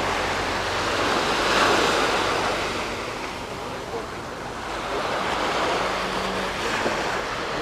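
Small waves washing onto a sandy beach, swelling and easing as they break, with wind on the microphone.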